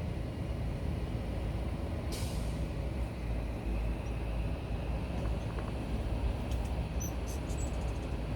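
A steady low outdoor rumble fills the background, with a brief hiss about two seconds in. Near the end come a few faint, very high, short chirps from hummingbirds.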